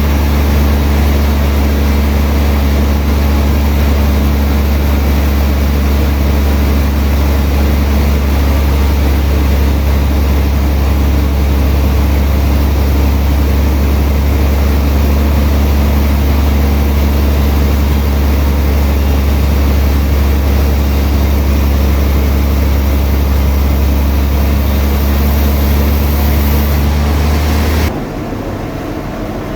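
Sawmill machinery running steadily with a strong low hum, the sound of its motor or engine; about 28 seconds in it drops sharply to a quieter hum.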